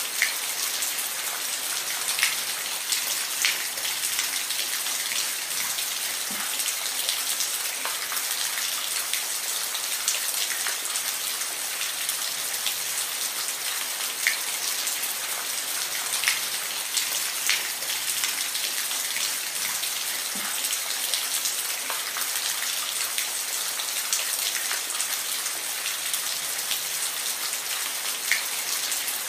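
Steady rain: a dense, even hiss of falling rain with scattered louder individual drops ticking on a nearby surface.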